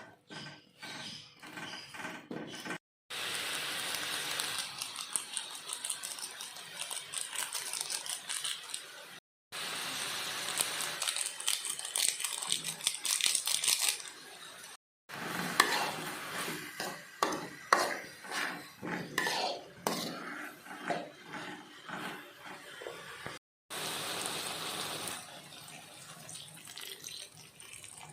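Kitchen cooking sounds in short cut-together clips: stretches of a steady hiss, and a run of clattering, clicking knocks of utensils against cookware. The sound cuts out abruptly four times.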